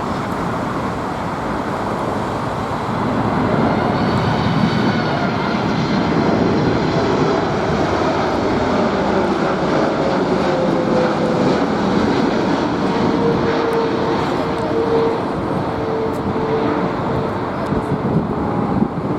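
Boeing 747 jet engines running as the airliner passes. The noise swells about three seconds in and holds, with a whine that slowly drops in pitch.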